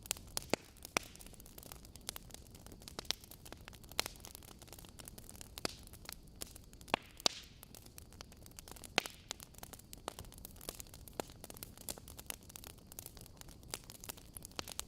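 Campfire crackling: irregular sharp pops and snaps over a low steady hiss.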